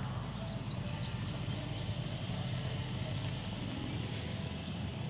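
Outdoor ambience: small birds chirping in quick short notes for the first few seconds, over a steady low rumble.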